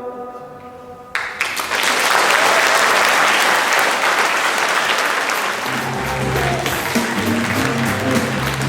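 The last held notes of a song fade out, then an audience bursts into applause about a second in. A few seconds later new music with a bass line starts under the clapping.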